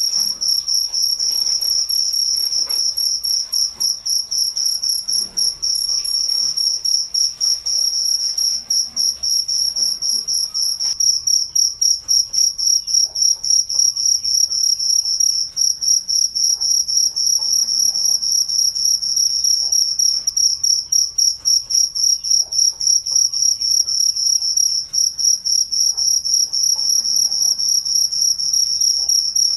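Cricket chirping: a high, steady trill in quick, even pulses that never stops.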